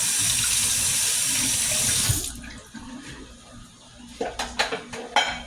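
Kitchen faucet running full into the sink, then shut off abruptly about two seconds in, followed by a few light knocks and clinks near the end.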